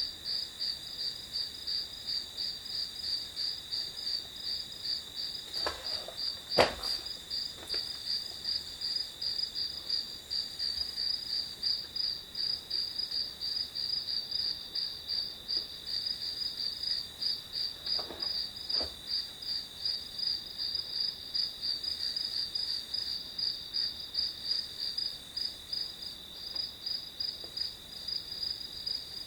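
Crickets chirping in a steady, rapid pulsing trill. A few short clicks cut in, the sharpest about six and a half seconds in and a faint pair around eighteen seconds.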